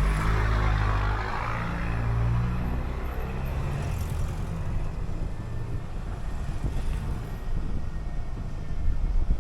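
City bus engine pulling away, its pitch climbing over the first few seconds, then running steadily under low road rumble.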